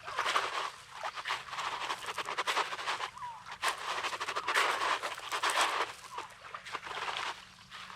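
Sea washing over a rocky, pebbly shore in irregular surges, mixed with crunching footsteps on the gravelly sand. It eases off near the end.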